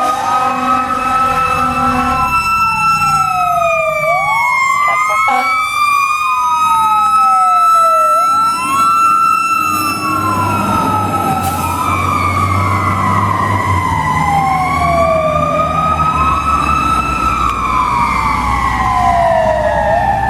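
Fire apparatus responding: two wailing sirens overlap, each rising and falling slowly. An air horn sounds over them in the first couple of seconds, and a heavy truck engine rumbles louder from about halfway through as the rig passes.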